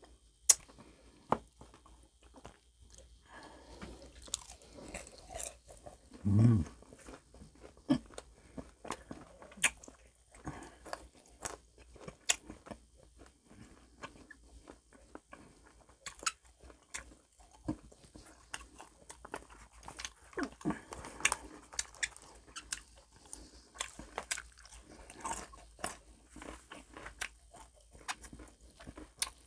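Close-up crunching and chewing of crispy fried calamares: many sharp, irregular crunches and mouth sounds, with one short, louder low sound about six and a half seconds in.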